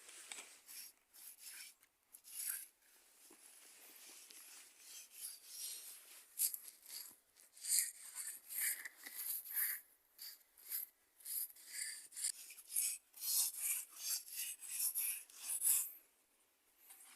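Repeated rasping strokes, like scraping or rubbing on a hard surface, about two a second, stopping shortly before the end.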